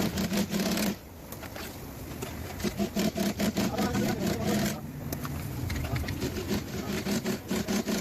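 Sewing machine stitching upholstery material in quick runs, a rapid clatter over a motor hum, pausing briefly about a second in and again near the middle.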